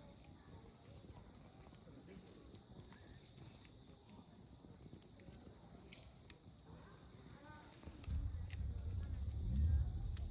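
Crickets chirping in steady pulsed trills, with a few sharp pops from a wood campfire crackling. A faint distant voice is heard near the middle, and about eight seconds in a low rumble comes in and is the loudest sound.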